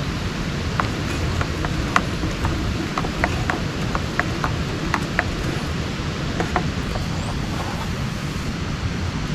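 Steady heavy rain, with many irregular sharp ticks and taps scattered through it, mostly in the first seven seconds.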